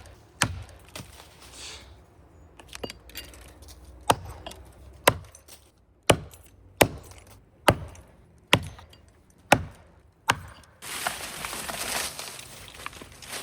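Axe chopping into a big maple trunk: about ten sharp strikes, roughly one a second. It stops near the end and gives way to a rustling hiss.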